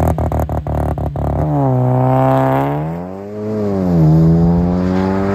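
Big-turbo 2.0-litre turbocharged four-cylinder of a VW Jetta GLI launching and accelerating away. There is a rapid crackle of sharp clicks in the first second and a half. The engine note dips in pitch about three seconds in, like a gear change, then climbs again as the car pulls away.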